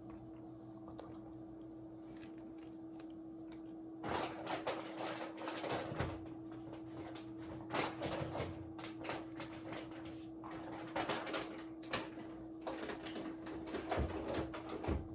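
Irregular clattering, knocking and scraping of small hard objects, starting about four seconds in, over a steady low hum.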